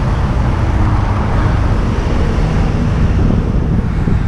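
Steady vehicle and road noise with wind rumbling on the microphone; no distinct impact.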